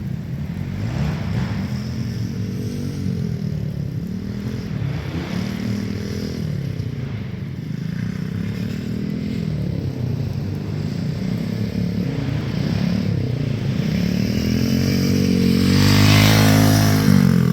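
Small 110cc four-stroke dirt bike engine being ridden, its pitch rising and falling over and over with the throttle. It gets louder and higher near the end.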